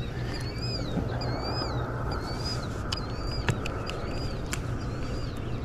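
A bird repeating a short, arched chirp about every two-thirds of a second, over steady low background noise, with a few sharp clicks.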